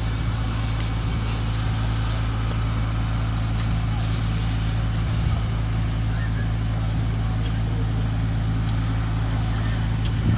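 Large truck engine idling, a steady low hum that holds unchanged.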